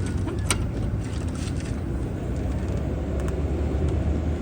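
Steady low rumble of a running engine, with a single sharp click about half a second in.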